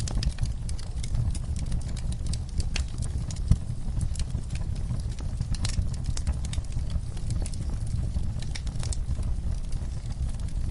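Fire crackling in a fireplace: irregular sharp pops and snaps over a steady low rumble, with one louder pop about three and a half seconds in.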